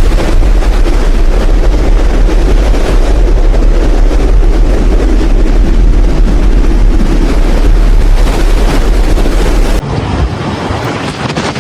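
Strong storm wind roaring and buffeting the microphone, a loud steady rumble. About ten seconds in it cuts suddenly to a thinner wind noise with less rumble.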